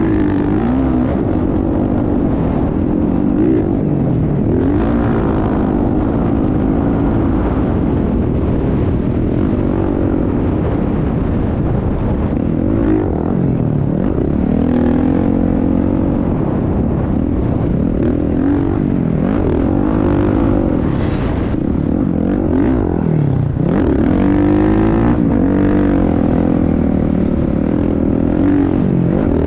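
Motocross dirt-bike engine noise, its pitch rising and falling again and again as the throttle is opened and shut.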